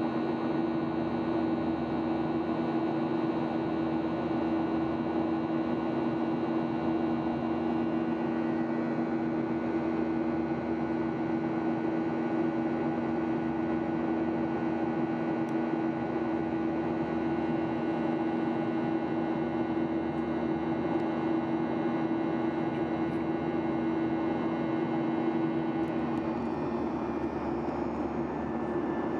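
Steady drone inside the cabin of a Boeing 737-800 airliner: jet engine and air noise with a constant low hum. There is a slight change in its tone near the end.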